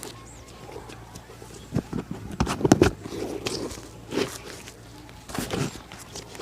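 Shoe-shining work: irregular brushing and tapping strokes on a shoe, densest and loudest a little before halfway through.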